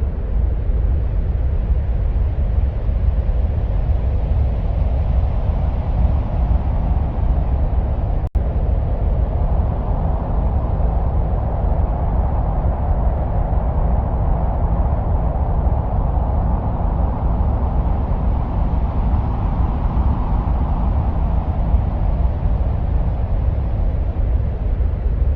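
Steady, deep rumbling wind-like noise presented as the sound of Mars, with a hiss in the middle range that swells and eases. It briefly drops out about eight seconds in.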